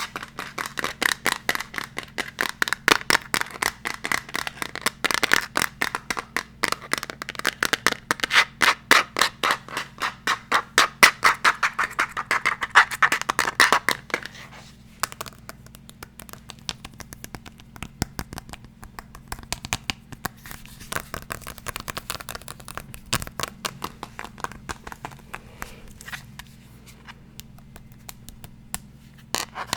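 Fast, even scratching strokes on an unidentified object, several a second, giving way about halfway through to quieter, finer scratching.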